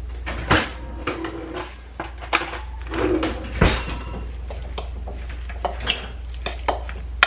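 A utensil knocking and scraping against a bowl as ground beef is mixed with steak sauce: irregular clinks and knocks, with two louder knocks about half a second and three and a half seconds in, over a steady low hum.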